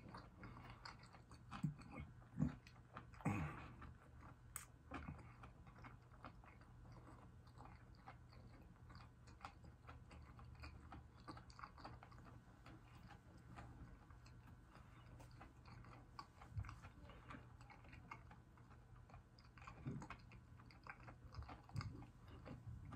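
Faint chewing of crispy fried seafood with the mouth closed: small wet clicks and crunches throughout, with a few louder mouth sounds in the first few seconds.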